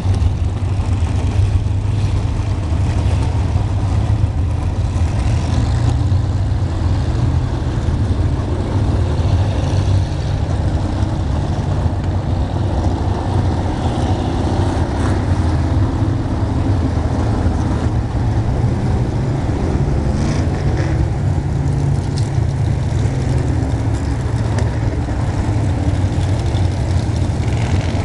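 Vintage modified stock car engines running on the track, a steady low rumble with engine pitch wavering up and down as cars go by.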